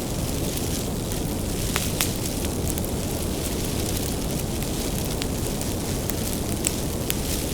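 Bonfire of burning firewood: a steady low rumble of flame with scattered sharp crackles and pops, a few louder pops about two seconds in and near the end.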